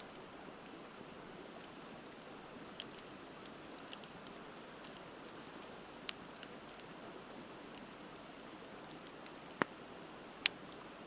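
Wood bonfire crackling, with scattered sharp pops, the two loudest near the end, over the steady rush of a river.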